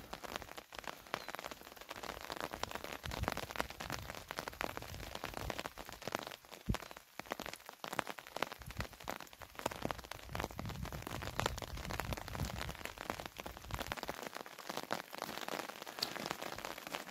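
Rain falling, with many irregular drop taps close by and a low rumble coming and going.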